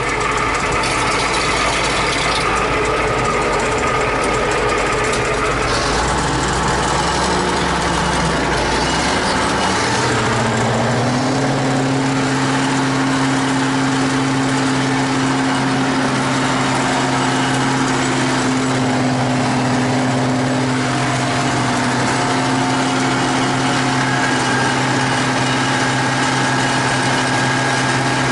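Diesel engine of a T-150K wheeled tractor running under load, heard from inside the cab. About ten seconds in the engine note rises and then holds steady.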